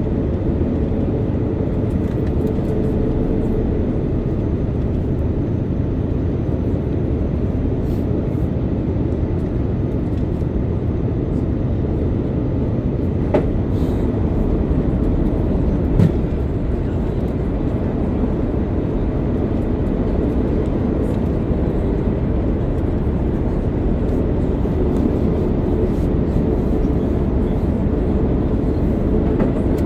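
Steady cabin noise inside an Airbus A330-900neo airliner on final approach, with landing gear extended: engine and airflow noise heard through the fuselage. Two faint knocks come around the middle.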